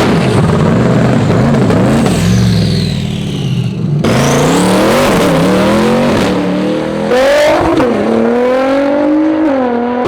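Twin-turbo C8 Corvette V8 revving, its pitch rising and falling, with a high whistle falling away about two to three seconds in. After an abrupt cut at about four seconds, the engine pulls hard, its pitch climbing and then dropping back several times as it shifts up through the gears.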